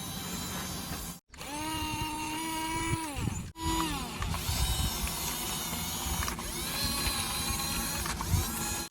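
Small electric motors and plastic gears of toy RC construction vehicles whirring and rattling, heard in several short clips. Around three seconds in, the whine drops in pitch as a motor slows down.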